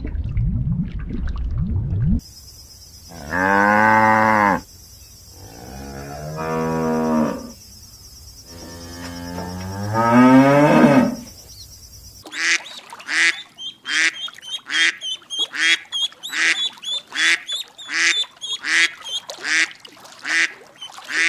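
A cow mooing: three long moos. Then, a little past the halfway point, a duck quacking in a fast, even series of about two quacks a second.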